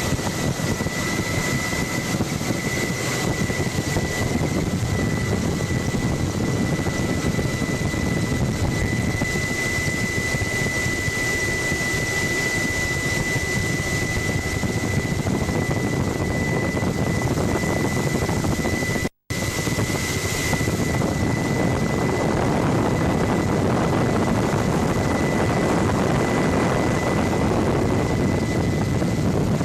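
Helicopter noise heard from aboard: a steady rotor and engine drone with a thin, steady high whine over it, cutting out for an instant about two-thirds of the way through.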